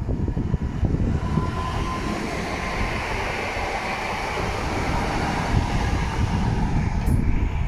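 A passenger multiple-unit train pulling out and passing close by, with a steady rumble of wheels and running gear on the rails.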